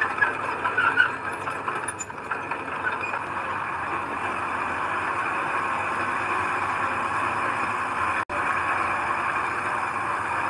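Diesel engine of heavy earthmoving machinery running steadily under work, with a few brief louder knocks in the first second. The sound cuts out for an instant about eight seconds in.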